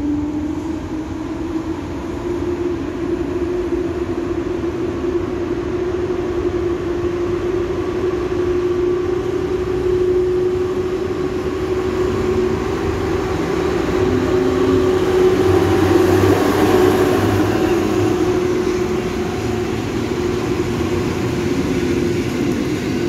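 Locomotive-hauled passenger train approaching and drawing past the platform, with a steady hum growing louder as the locomotive nears. The rolling noise of the wheels and coaches is loudest about two-thirds of the way through, then eases.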